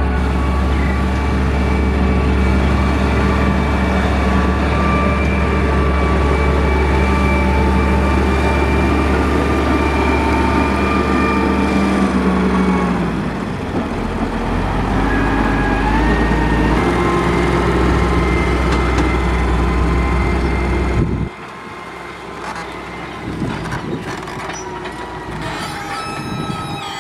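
Caterpillar 140H motor grader's diesel engine running steadily under load. About halfway through, the engine note drops, then settles at a new, steady pitch. Near the end the sound cuts off abruptly to a quieter engine sound.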